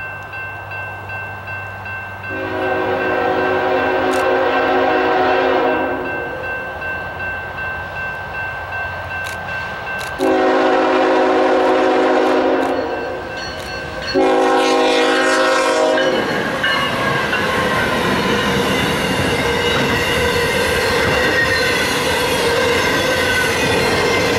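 CSX freight locomotive's air horn sounding at a grade crossing: two long blasts and a shorter third one. The train then rolls by close up, with a steady rumble and wheel clatter from the passing autorack cars.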